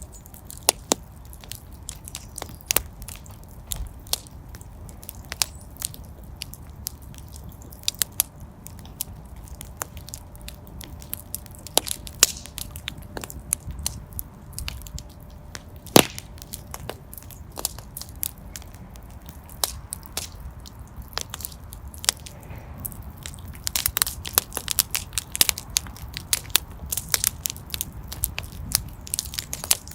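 Fire crackling in a fireplace: irregular sharp pops and snaps over a low steady rumble, with one loud pop about halfway through and denser crackling near the end.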